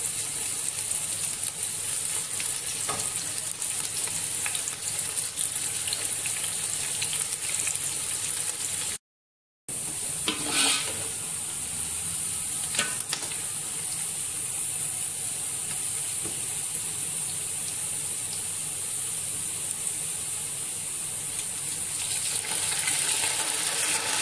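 Sliced onions with curry leaves and pandan leaves sizzling in hot oil in a large aluminium pot, a steady hiss, with a metal ladle stirring and a couple of short clinks against the pot a little after the middle. The sound cuts out briefly about nine seconds in.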